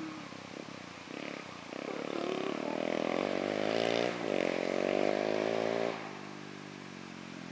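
Orion dirt bike engine running, revving up and getting louder from about two seconds in, with a brief dip in pitch just after four seconds, then holding high before dropping back to a lower, steadier note near six seconds.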